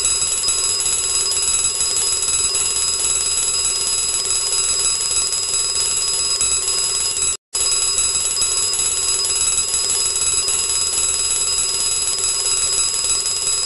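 Alarm clock ringing: a steady, loud electronic bell-like ring that breaks off briefly about halfway through, then starts again.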